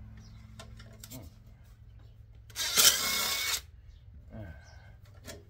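A power tool runs in one loud burst of about a second in the middle, as bolts are being taken out of a transformer, with a few light clicks of metal parts around it.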